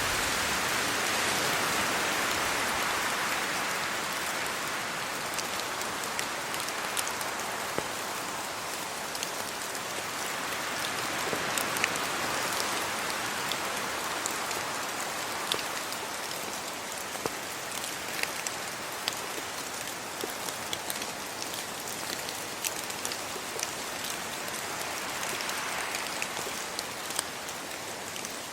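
Steady rain falling on trees and leaves: a dense, even hiss that swells and eases a few times, with scattered sharp ticks of single drops.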